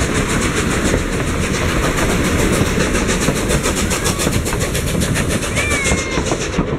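Narrow-gauge train running along the track, a steady rolling noise with a fast, even beat, heard from an open passenger-car window.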